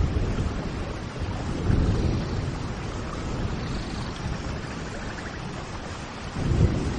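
Steady rain, with low swells of rumble, the loudest near the end, and a few faint bird trills.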